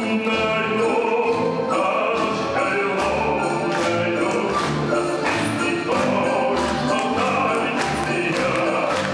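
Live orchestra playing, with voices singing over sustained instruments and regularly repeated percussion strikes.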